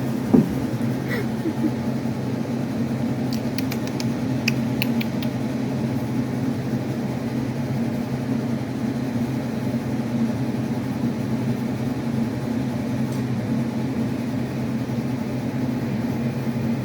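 A steady low mechanical hum, like a running household appliance or air conditioner, with a few faint light clicks about four to five seconds in.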